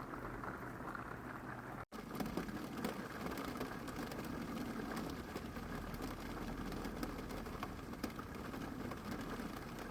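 Rain falling on an RV's metal roof, heard from inside: a steady patter of many small drop ticks over a soft hiss. It cuts out for an instant about two seconds in, then carries on the same.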